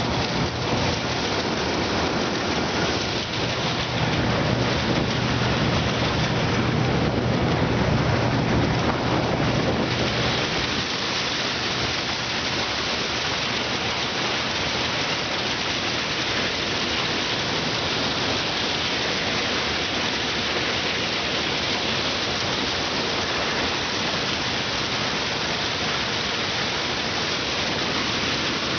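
Combine harvester running while harvesting sunflowers: a dense, loud rushing noise of the machine at work, with a steady low engine hum that fades out about ten seconds in.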